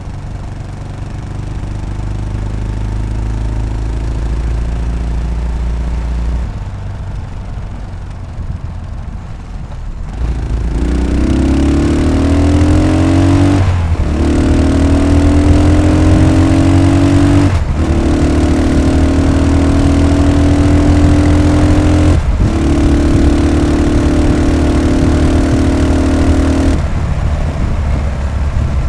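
Yamaha SR500's single-cylinder four-stroke engine riding along. It pulls up for a few seconds and eases off about six seconds in. It then accelerates hard through three gear changes, each a short break in the rising engine note, holds a steady speed, and backs off near the end.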